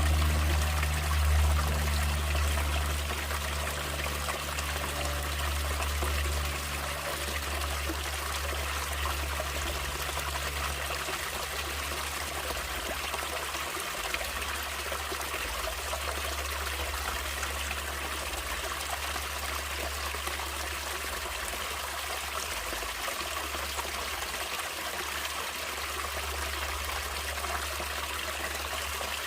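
Stream water trickling and flowing steadily. Low sustained tones fade out over the first several seconds.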